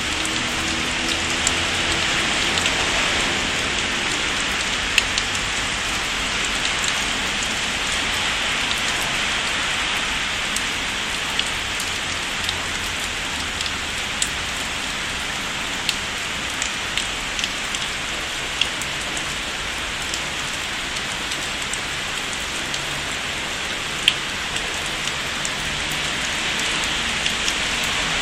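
Steady rain falling: a constant hiss with scattered sharper taps of single drops.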